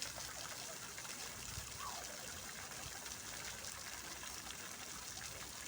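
Fountain water falling and splashing steadily, an even hiss of water without pauses.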